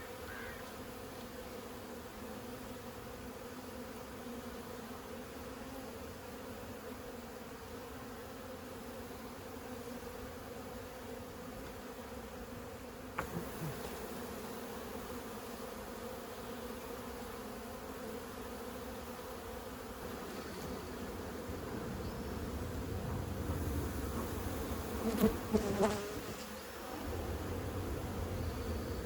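Steady hum of a large mass of feral honey bees from a disturbed colony being cut out of a house wall. A few knocks and rustles from handling come near the end.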